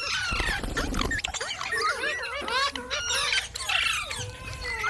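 Green parrots chattering and squawking: many short, arching calls overlapping one another, with no clear words.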